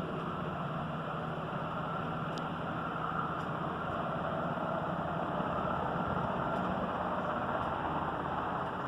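Large helicopter's engine and rotor noise, a steady drone that grows a little louder about halfway through.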